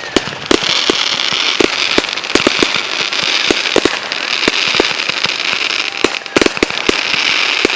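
Consumer fireworks going off: a steady crackle with many sharp bangs and pops throughout, and a cluster of louder bangs about six seconds in.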